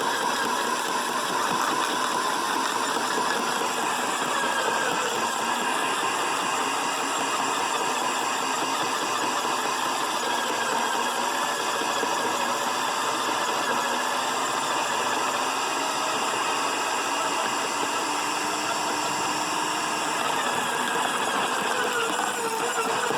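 Sun Joe 15-amp electric wood chipper running steadily with a motor whine and cutting noise, its pitch sagging slightly a couple of times as it chews through limbs.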